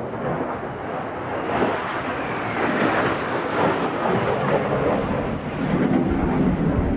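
Jet noise from Kawasaki T-4 jets passing, a loud rushing sound that builds over the first two seconds and stays strong. Wind rumbles on the microphone near the end.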